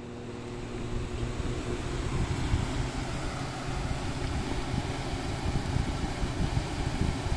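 Whirlpool window air conditioner starting up: its fan spins up over the first couple of seconds into a steady rush of air with an uneven low rumble. It is a bit of a rough startup, the unit spitting out old dust.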